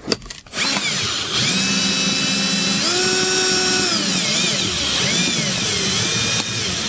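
Cordless drill driving a Rolladeck windshield-removal winder, pulling the cutting wire through the urethane bead. The motor whine starts about half a second in, climbs in pitch around three seconds, then drops and wavers as the load on the wire changes.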